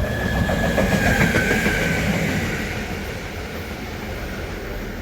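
A train running through on the tracks, loudest about a second in and then easing off, with wheel clatter and a high whine that dips slightly in pitch over the first two seconds.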